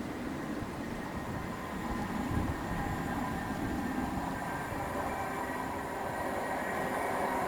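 Train running on the line, a steady rumble that grows louder toward the end as a thin whine comes in.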